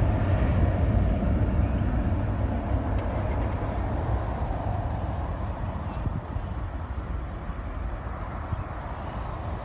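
Aircraft engine rumble fading slowly as the plane moves away.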